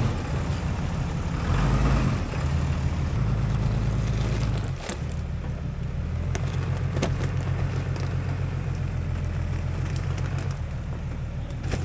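An off-road vehicle's engine running at low revs while it creeps over rough ground, swelling briefly about two seconds in and easing back a few seconds later. Scattered sharp clicks and crackles sound over the engine.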